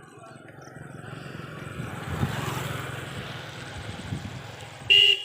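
A motor vehicle passing close on a road, its engine noise swelling to a peak about two seconds in and then easing off, followed by two short horn honks near the end.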